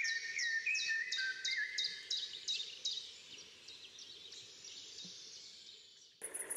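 Birdsong: a small bird's rapid series of short high notes, about three a second, with a few lower whistled notes at the start. It fades out after about three seconds.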